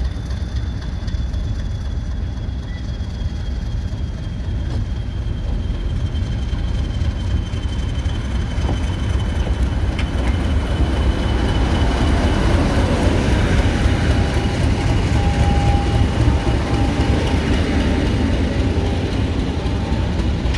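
Heritage diesel locomotive and train running: a steady heavy rumble that grows louder from about halfway through, with a faint high whine slowly falling in pitch.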